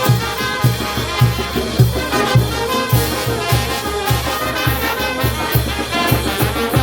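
Peruvian brass band playing a lively tune: trumpets and trombones carrying the melody over a steady low beat of about two pulses a second.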